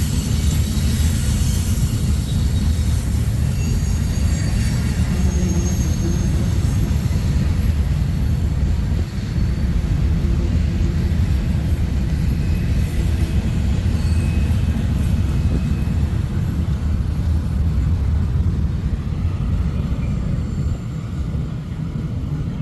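Train cars rolling past with a steady low rumble, with faint high wheel squeal in the first several seconds. The higher noise eases off toward the end.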